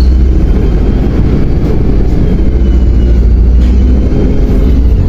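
MAZ 105.065 city bus running, a loud steady low diesel rumble with rattly road noise, heard from inside the bus as it drives.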